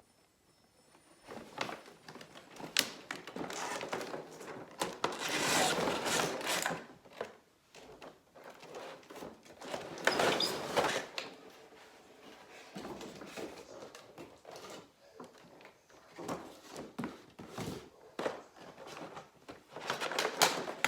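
Paper and cardboard packaging rustling and sliding, loudest in two long stretches, with scattered clicks and knocks as toy train parts are taken out of the box and set down.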